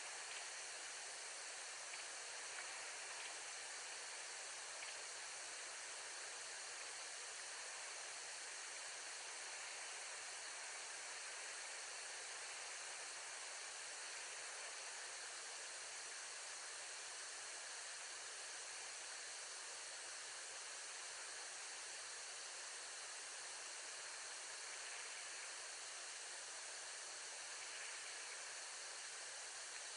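Steady, even hiss with no distinct calls or other events.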